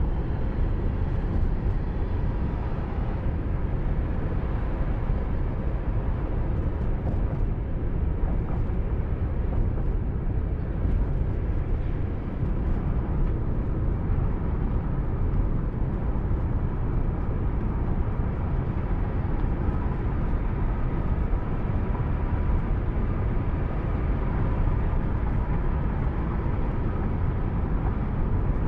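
Steady low rumble of a car driving on the road, heard from inside the cabin: tyre and engine noise, with a faint steady hum through it.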